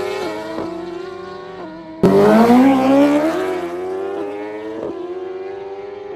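Sport motorcycle engines at full throttle on acceleration runs. The pitch climbs and drops back at each gear change as a bike pulls away and fades. About two seconds in, another loud run starts and climbs through its gears the same way.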